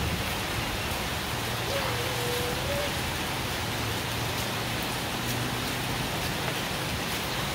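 Heavy rain falling steadily, an even hiss, with a faint short vocal sound about two seconds in.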